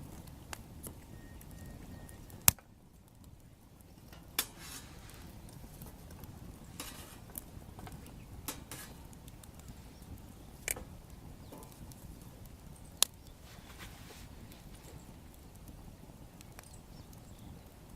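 Wood fire crackling, with a few sharp pops over a low steady rush; the loudest snap is about two and a half seconds in.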